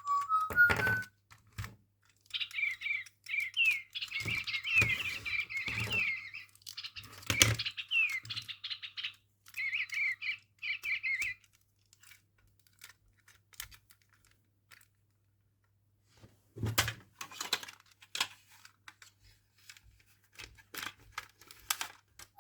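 An electronic toy bird chirping and warbling in quick high tweets for about nine seconds, over clicks and knocks from the plastic toy being handled. Only handling knocks and clicks are heard after that.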